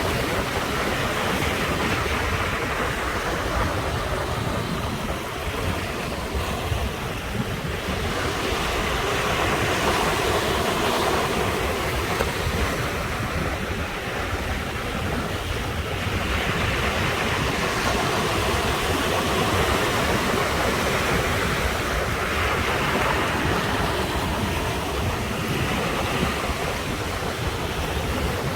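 Sea surf breaking and washing against the shore, the wash swelling and easing about four times over a continuous low rumble.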